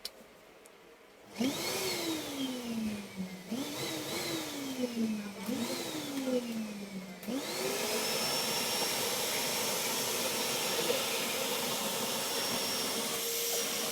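Miyako 1600 W wet/dry vacuum cleaner motor switching on. Its whine rises and then falls away three times in quick succession. From about seven seconds in it spins up and runs steadily with a strong hiss of air.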